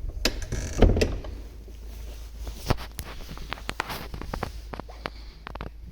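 Footsteps and small knocks on a church floor: a heavier thud about a second in, then a run of quick light steps and clicks over a low steady hum.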